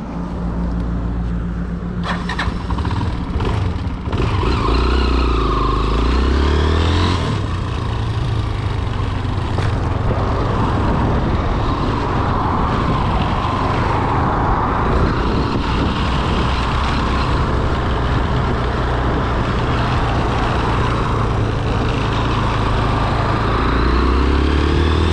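Single-cylinder engine of a 1999 Honda NX 200 motorcycle pulling away and riding, with a steady rush of road and wind noise. Its pitch rises as it revs up about five seconds in and again near the end.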